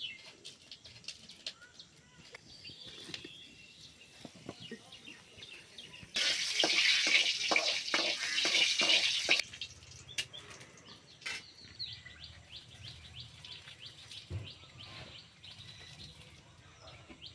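Food sizzling and crackling in hot oil in a wok over a fire. It starts abruptly about six seconds in, loud, and stops about three seconds later, with faint bird chirps around it.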